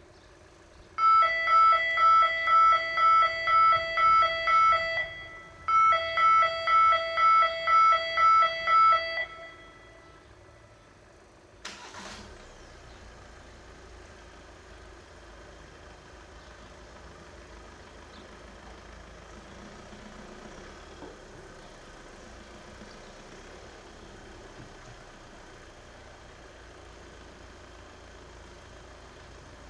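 Level crossing warning signal sounding a pitched electronic ding about twice a second for roughly eight seconds, with a short break partway through, then stopping. A sharp click follows a couple of seconds later, and then a steady rumble of traffic noise.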